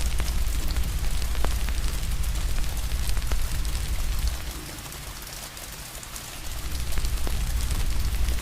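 Steady rain hiss mixed with a crackling fire, its sharp pops and snaps scattered through. A deep low rumble under both fades out for a couple of seconds midway, then returns.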